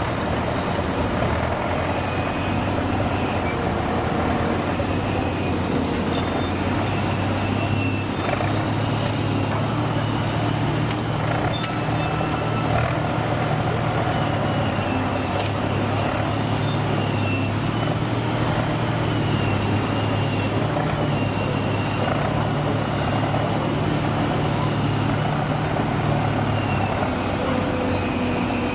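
Heavy diesel engine running at a steady speed, a continuous low hum that eases slightly near the end.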